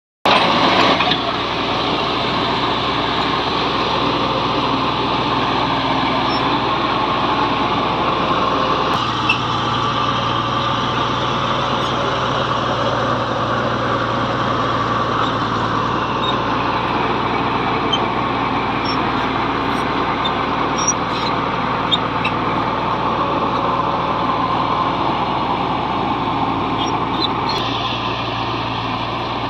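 Bulldozer's diesel engine running steadily, its note shifting slightly about nine seconds in, with a few brief clicks over it.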